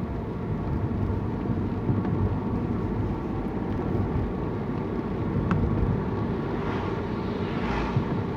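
Steady low rumble of a vehicle's engine and road noise, with no sudden events standing out.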